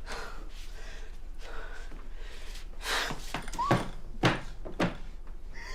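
Quiet room tone, then about five short knocks and thumps in quick succession a few seconds in, like a door or objects being handled.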